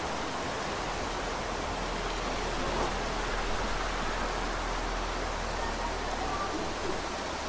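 Steady heavy rain falling, an even hiss of many drops. A low rumble sits underneath and fades out near the end.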